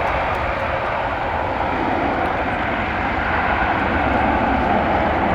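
Airbus A400M Atlas's four turboprop engines running loud and steady on the landing roll, growing a little louder toward the end.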